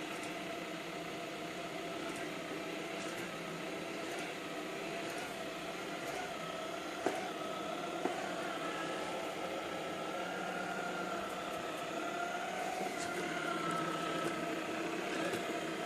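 Robot vacuum cleaner (iClebo Arte) running on a sofa, its suction motor and brushes giving a steady whir with a slightly wavering hum, broken by two brief clicks about halfway through.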